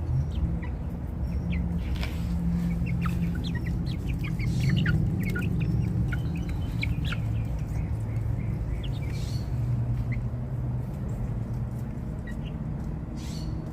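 Chickens clucking and chirping in many short calls, busiest in the first half, over a low steady hum.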